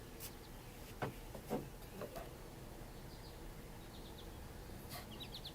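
Faint birds chirping, with a quick run of short high chirps near the end, and a few soft knocks in the first couple of seconds.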